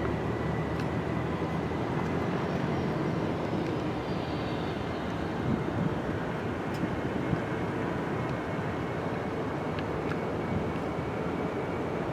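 Jet airliner engines running: a steady rushing noise with a thin high whine held throughout, edging slightly higher in pitch toward the end.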